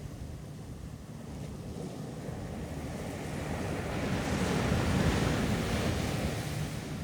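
Ocean surf on a beach: a wave's wash builds to a loud hiss about two-thirds of the way through, then eases off near the end. Low wind rumble on the microphone runs underneath.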